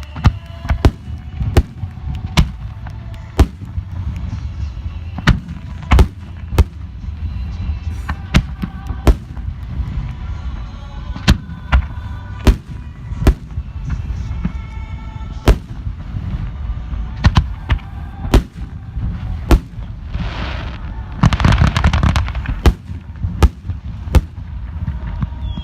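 Fireworks shells bursting in quick succession: sharp bangs over a deep rolling boom. About twenty seconds in, a dense crackling stretch lasts a couple of seconds.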